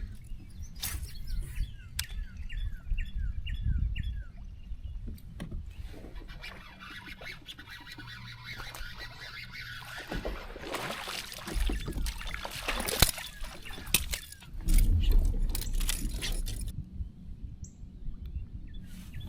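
A bird calling a quick run of about six short falling chirps a couple of seconds in, over low rumble. Later comes a longer stretch of noisy hiss with sharp clicks and knocks.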